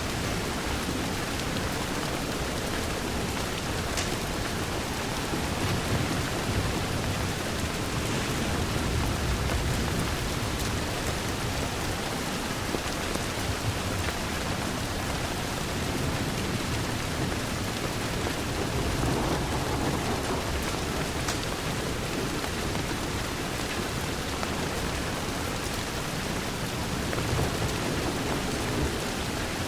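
Steady rain falling against a window pane, an even hiss with a low rumble underneath and a few faint clicks.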